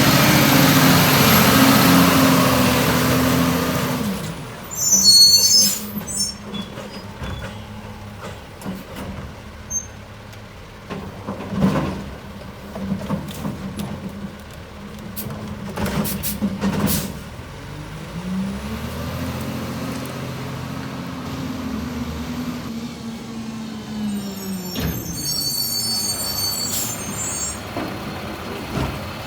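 Garbage truck with an automated side loader working: the engine revs up and falls back twice, with a high whine over it the first time. Between the revs come a few sharp knocks and clanks, and air brakes squeal twice in short high bursts.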